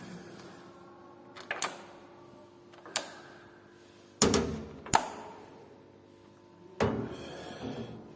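Sharp metal knocks and clanks of parts and tools being handled while a workpiece and cutting tool are set up on a lathe, about five in all and a second or so apart, each with a short ring, over a faint steady hum.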